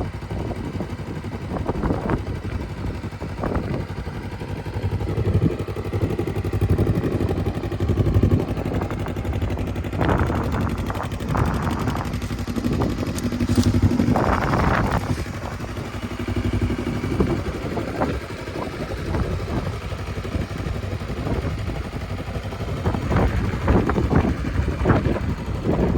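Yamaha WR250R motorcycle fitted with a Yamaha R3 parallel-twin engine, running, its loudness rising and falling as the revs change.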